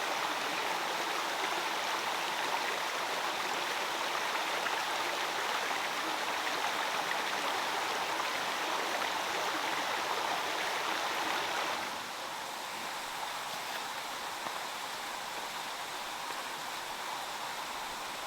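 Water running steadily over stones, a handmade waterfall and stream. The rushing sound drops slightly in level and brightness about twelve seconds in.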